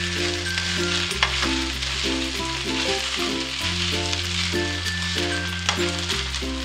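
Fried rice sizzling in a hot wok as it is stirred with a spatula, with a sharp click about a second in and another near the end. Light background music with a steady bass line plays over it.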